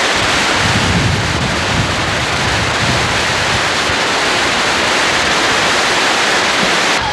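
Waterfall on the Sydenham River rushing steadily, a loud, even wash of water noise. Low gusts of wind buffet the microphone during the first few seconds.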